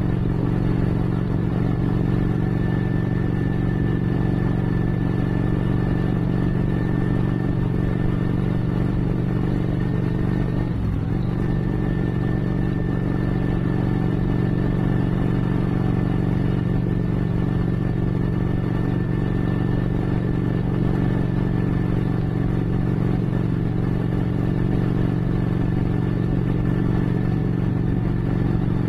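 Motorcycle engine running steadily while cruising, heard from bike-mounted cameras, with a thin steady high whine above it. About eleven seconds in, the engine note briefly breaks and shifts, then settles again.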